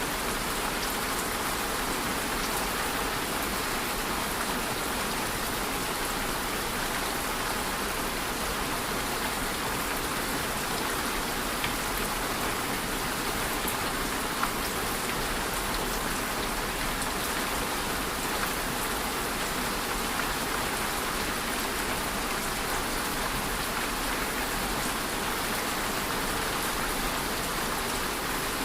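Steady rain falling on a surface, an even hiss of rainfall with scattered drop ticks and an occasional louder drip.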